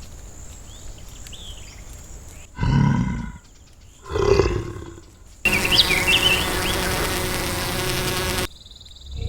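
Two short, pitched animal calls about a second and a half apart, followed by a separate stretch of steady hiss with high chirps that cuts off suddenly.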